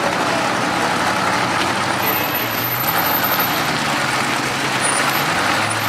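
Chevy Nova's engine running at low speed with a steady low note that shifts in pitch briefly a few seconds in, over the din of other idling engines.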